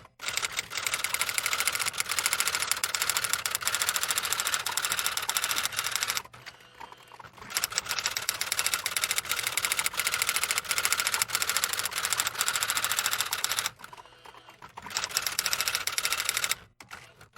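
A small machine clicking fast and evenly, stopping twice for about a second and then starting again.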